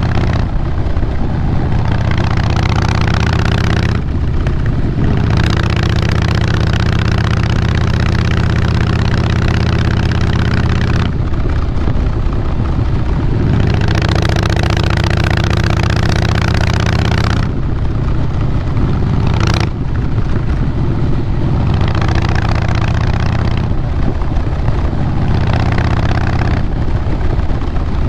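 2012 Harley-Davidson Fat Boy Lo's Twin Cam 96 V-twin running through Vance & Hines Big Radius 2-into-2 exhaust while being ridden. The throttle opens and closes in turn, with the exhaust note dropping back about 4, 11, 18 and 24 seconds in before pulling again.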